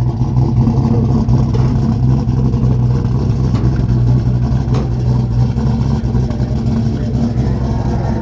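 1970 Plymouth 'Cuda's 440 big-block V8 idling steadily.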